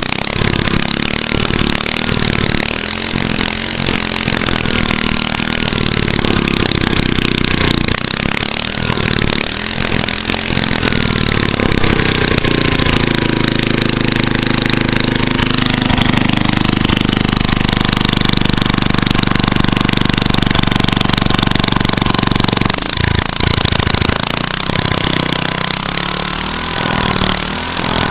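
Modified Tecumseh 5 hp single-cylinder four-stroke engine running loud and unmuffled with its governor removed. The throttle is blipped unevenly at first, then held steady at high revs from about halfway through for around ten seconds before dropping back.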